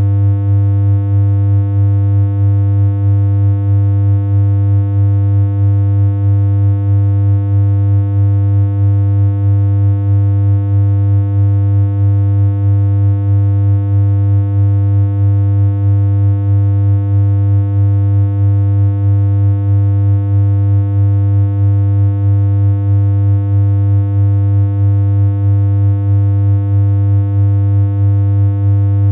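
A steady, unchanging low electronic hum from a synthesizer, one held buzzy tone that never varies in pitch or loudness.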